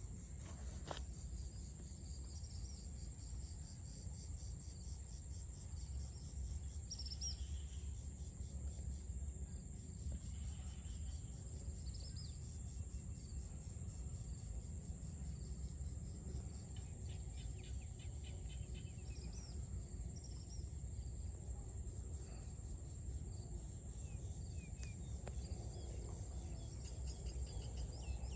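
An insect trills continuously on one high, steady pitch, over a low steady rumble, with a few brief bird chirps now and then.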